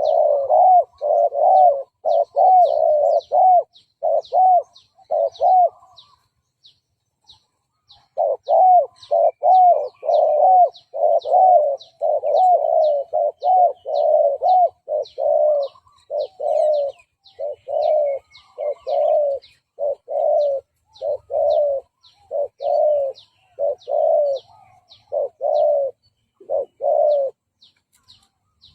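Spotted dove cooing in quick short notes, about two a second: the fast 'gù' call of a lure bird that draws in wild rivals. The cooing pauses for about two seconds near the start. A faint high ticking, a few ticks a second, runs above it.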